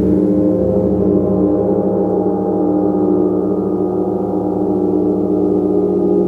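A gong sounding continuously as a sustained wash of many overlapping steady tones. It has a fast wavering pulse in the low tones and no single strike stands out.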